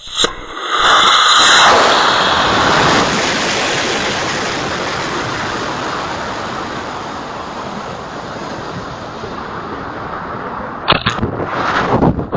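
High-power rocket motor igniting: a sudden loud rush of exhaust noise that is loudest in the first two seconds, then fades slowly as the rocket climbs away. Uneven choppy noise comes in near the end.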